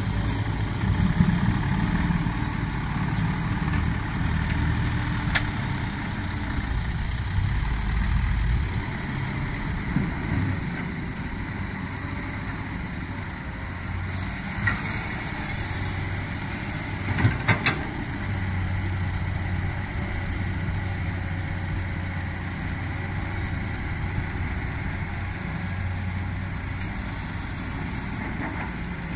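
Komatsu PC200 hydraulic excavator's diesel engine running under changing load, its pitch shifting as it works. A few sharp metallic clanks come through, one at about five seconds in and a cluster at about seventeen seconds in.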